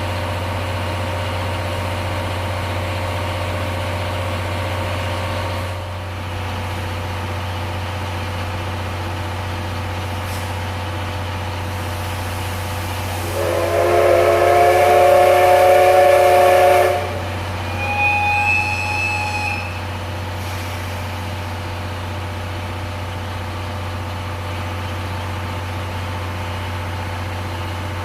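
A train's horn sounding in the station: a loud blast of several tones held together for about three and a half seconds, then a short higher toot, over the steady low hum of a train standing at the platform.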